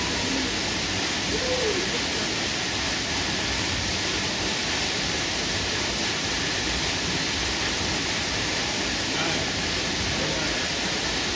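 Steady rush of a waterfall pouring into a natural spring pool.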